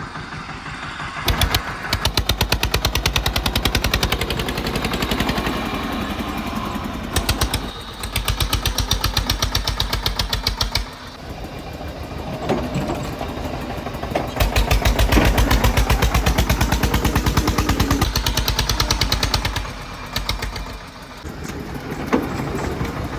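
Diesel tractor engine running hard under load with a fast, loud chugging beat. It pulls in long stretches and eases off twice, once about halfway through and again near the end.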